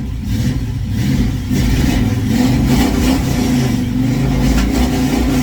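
Classic Chevrolet engine running and being revved, growing louder about a second and a half in and wavering in pitch. The owner puts the way it runs down to really bad gas.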